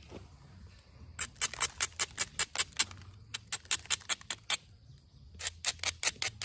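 Onondaga chert spear point being worked while it is thinned: two runs of quick, sharp, light clicks of tool on stone, about six a second.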